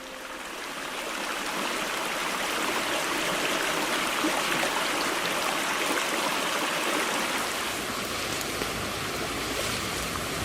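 Steady rushing of running water, fading in over the first couple of seconds, then holding even.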